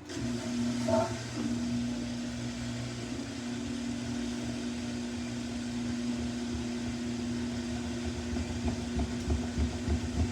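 Samsung washing machine in its spin cycle: a steady motor hum that starts abruptly and grows slowly louder as the drum gathers speed, with a low rhythmic pulsing toward the end.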